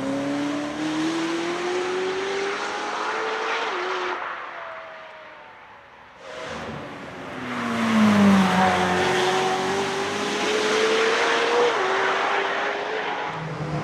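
High-performance car engine accelerating hard, its pitch climbing to an upshift, then fading away. A second pass follows: the engine note drops, then climbs again through another upshift.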